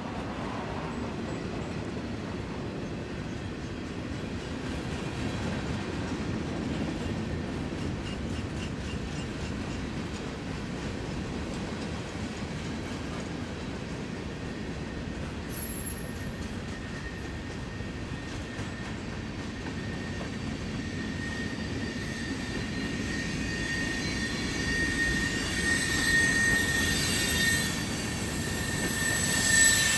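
A freight train's cars rolling on the rails with a steady rumble. Over the last third a high, steady wheel squeal builds and grows louder.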